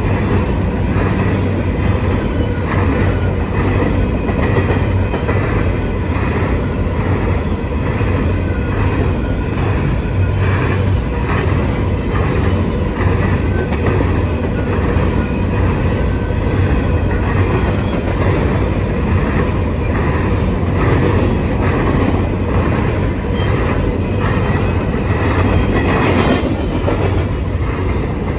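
Empty covered grain hopper cars of a long freight train rolling past: a steady rumble of steel wheels on rail with a repeating clickety-clack of the wheels.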